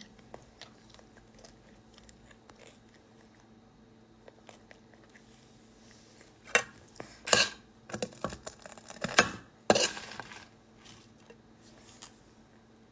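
Crunchy food being bitten and chewed: a few seconds of quiet, then a cluster of loud crunches in the middle that die away.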